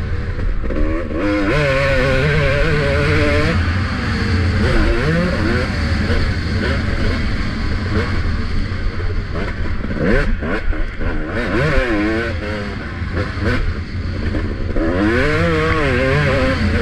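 Motocross bike engine being ridden hard, the revs rising and falling in repeated surges as the throttle is worked, over a constant low rumble of wind on a helmet-mounted camera.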